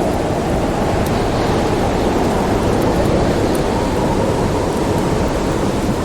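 Storm wind blowing steadily in a dense, low rush, with a few faint pops from a crackling wood fire.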